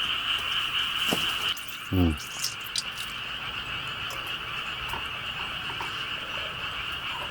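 A chorus of frogs calling steadily, with a short falling sound about two seconds in.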